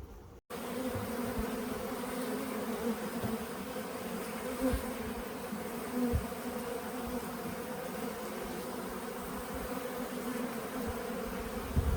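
Honeybees buzzing in a steady hum at the hive, starting abruptly about half a second in, with a few soft low thumps.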